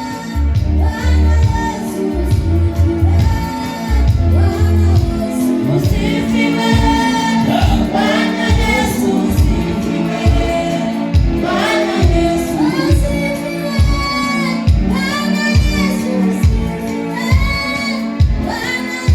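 Gospel worship song: voices singing over a band, with held bass notes at first and then a steady bass drum beat of about three beats every two seconds.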